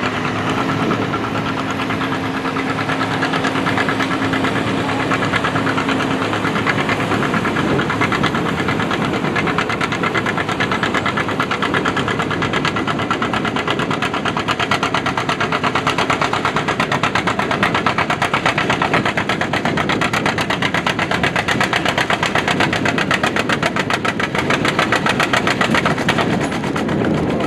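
Antique farm tractor engine running hard at a tractor pull, with a rapid, even exhaust beat that sharpens partway through.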